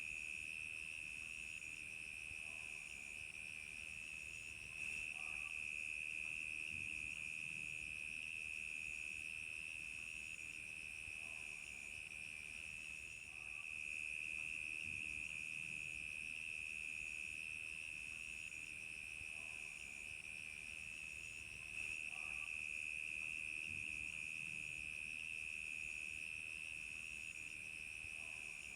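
Crickets chirping in a dense, unbroken chorus at one steady high pitch, with a fainter, higher insect trill pulsing evenly above it.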